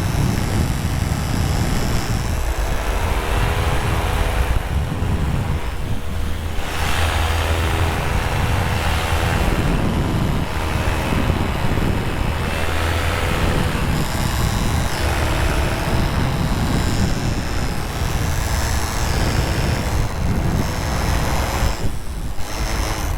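Paramotor engine and propeller running, its pitch rising and falling with the throttle, under heavy wind rumble on the microphone.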